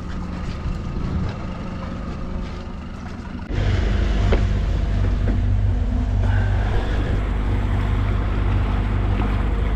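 Motorboat engine running steadily. About three and a half seconds in, the sound cuts abruptly to a louder, deeper running rumble.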